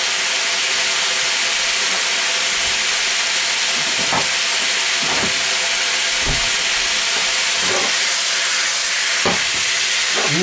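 Bean sprouts and vegetables frying in a wok over high heat, a loud, steady sizzling hiss as the moisture steams off, with a few short knocks of the spatula against the pan.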